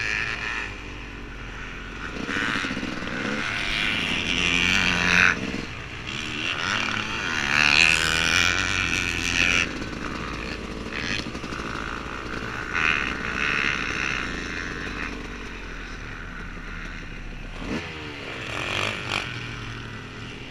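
Yamaha YZ250 two-stroke motocross engine, bored out with a 300 big bore kit, revving hard and easing off again and again as the bike is ridden, with knocks and clatter from the bike over the track.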